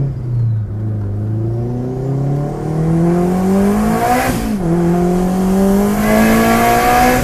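Turbocharged 2009 Honda Civic Si's 2.0-litre four-cylinder under hard acceleration, heard from inside the cabin: engine pitch climbs through one gear, drops at an upshift about four and a half seconds in with a short burst of hiss, then climbs again. The front tyres are spinning through the pull and the traction control is cutting in.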